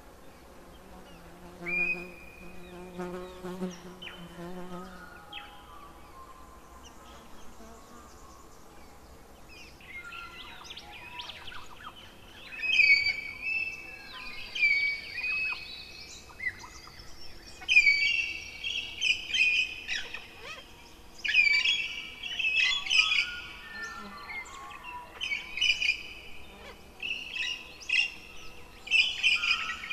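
Birds singing and chirping in short, repeated phrases, growing busier and louder from about ten seconds in. A low buzzing hum in the first few seconds.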